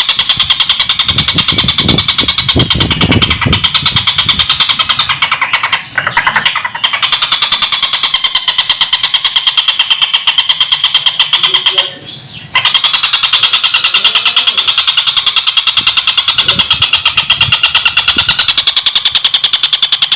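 Stork-billed kingfisher (tengkek buto) giving a long, harsh, rapid rattling cackle, a fast even chatter that stops briefly about six seconds in and again near twelve seconds before carrying on.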